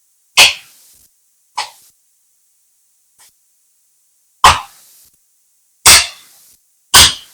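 Large axe chopping a dead log: four heavy strikes, each a sharp crack that dies away quickly, plus a lighter blow early on, spaced unevenly over several seconds.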